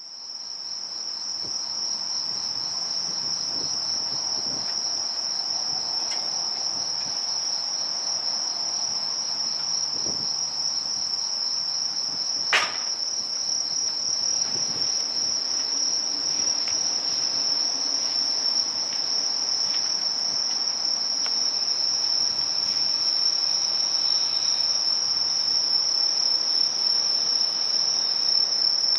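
Insects chirping in a steady, high-pitched chorus, with one sharp click about halfway through.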